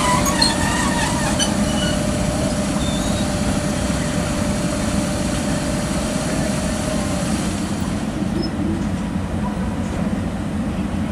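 A vehicle running steadily: a loud low rumble with a thin steady whine that fades out about seven seconds in.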